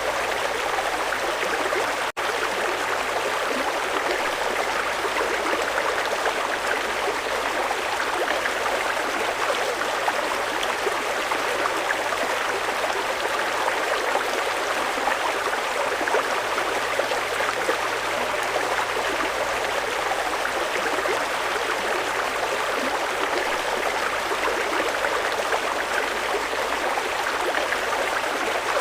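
Fast-flowing mountain river rushing steadily, with a momentary gap in the sound about two seconds in.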